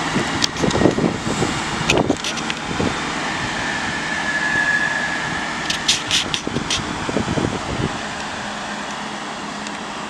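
Class 165 diesel multiple unit pulling out of the platform, its engine running under load with rumbling pulses, a brief high tone partway through and a cluster of sharp clicks. The sound eases off over the last couple of seconds as it leaves.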